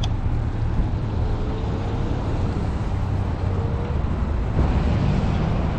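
Steady low rumble of wind buffeting the microphone and a fat-tire e-bike rolling over snowy, salted pavement, with a faint thin whine coming and going.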